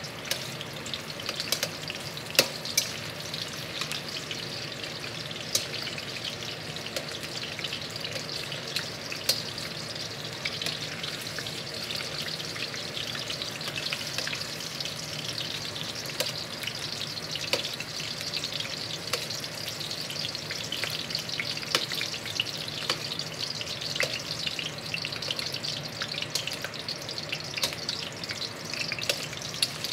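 Red onion rings sizzling in hot oil in a wok: a steady frying hiss with scattered sharp clicks and pops as the rings are turned with metal tongs.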